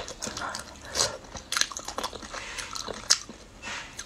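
Close-up mouth sounds of a person biting and chewing a piece of mao xue wang, Chongqing spicy blood-curd stew, with a few sharp smacks about one, one and a half and three seconds in.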